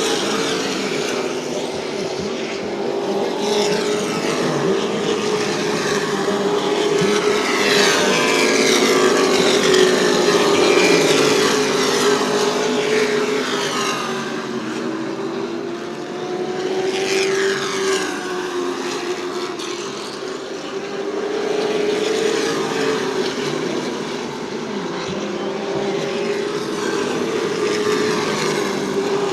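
A field of Super Trucks racing round a short oval, their engines running hard in a continuous drone. The engine note swells and falls in pitch several times as trucks pass, loudest about a third of the way in.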